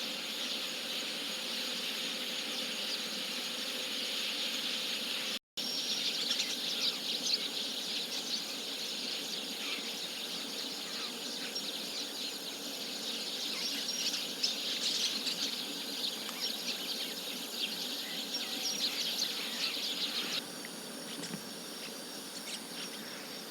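Chestnut-cheeked starlings chattering at their roost: a dense mass of short overlapping chirps over a steady insect-like hiss. The sound cuts out for an instant about five seconds in, and the chatter drops off and thins a few seconds before the end.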